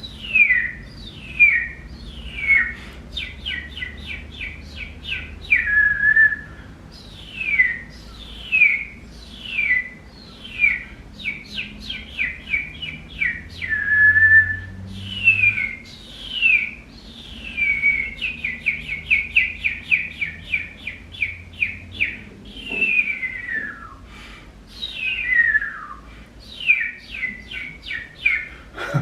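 A person whistling bird-like calls: repeated falling whistles, fast runs of short chirps, and a couple of brief held notes.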